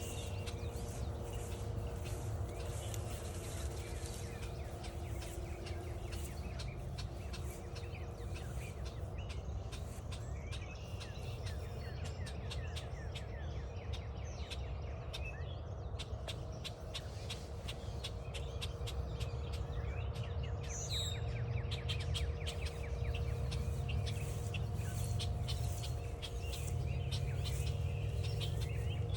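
Forest birdsong, with small birds chirping and a short high-pitched call about 21 seconds in, over a steady low rumble and a faint hum. Many fine ticks run throughout.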